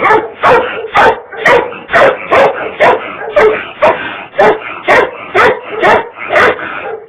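Catahoula hog dog barking in a steady rhythm, about two barks a second.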